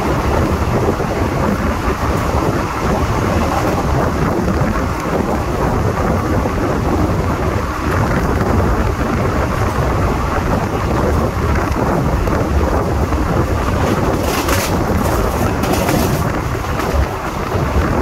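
Loud wind buffeting the microphone held out of a fast-moving Indian Railways express train, over the steady rumble of the coaches' wheels on the track, with a few brief sharper hisses near the end.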